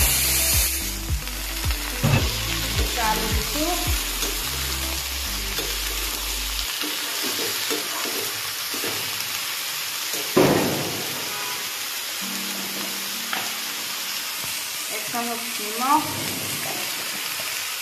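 Ridge gourd and potato pieces frying in hot oil in a kadai, loudest as they land in the pan at the start, then a steady sizzle as they are stirred and scraped with a slotted metal ladle, with one sharp knock of the ladle on the pan about ten seconds in.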